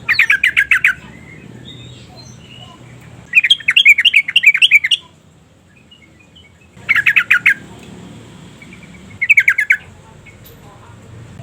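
Yellow-vented bulbul singing: four short bursts of rapid, clear notes, each lasting about a second, with pauses of a second or two between them. Another burst begins right at the end.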